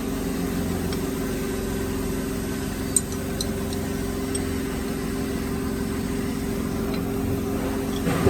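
Electric motor of a woodworking drilling machine running with a steady hum, with a single sharp click about three seconds in and a louder clatter right at the end.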